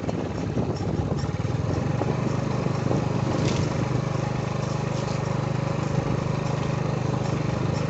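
A small engine running steadily, with a low even drone that grows a little louder about a second in.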